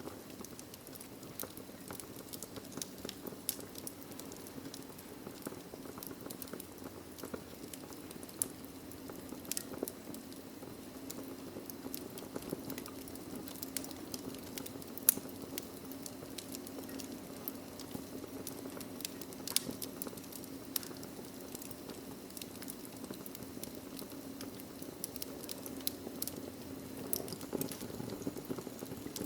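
Wood fire of burning logs in a fireplace, crackling steadily with many small irregular snaps and a few louder pops, over a low rushing of flame.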